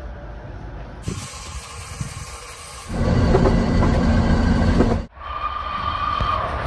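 Short train recordings cut together one after another: a tram passing, then from about three seconds in the loud, steady running of a train heard from the cab, then near the end a passing steam-hauled train with a steady hiss and a held high tone.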